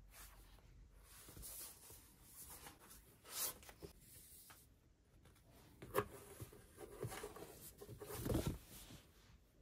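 Irregular rustling and scraping of paper being handled, with a sharp click about six seconds in and a longer scrape near the end.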